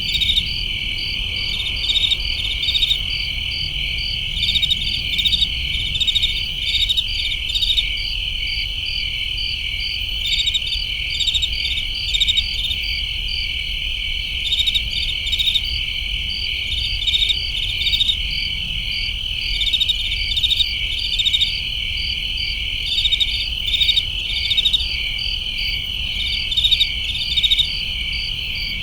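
Chorus of crickets: a steady high trill, with clusters of louder pulsed chirps every second or two.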